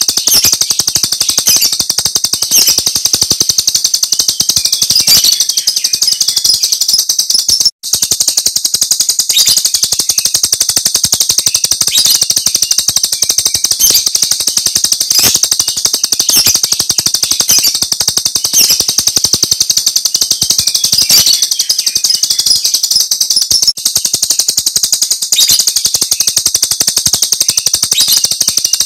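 Jalak Rio starling singing its loud, rapid 'tembakan' (shooting) chatter without a pause, with a brief break about eight seconds in.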